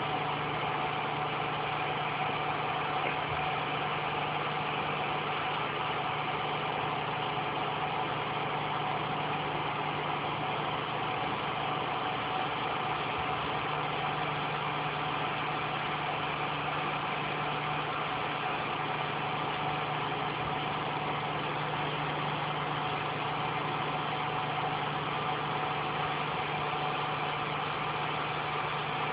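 Steady mechanical hum with a constant low drone and fainter steady tones above it, unchanging throughout.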